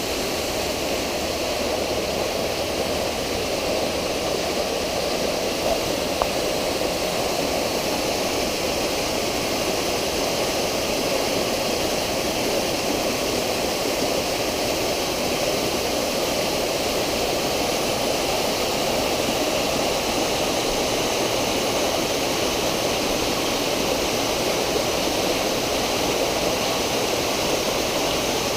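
Water from a swimming pool's water features, such as a rain curtain, water bowls and laminar jets, pouring and splashing steadily into the pool.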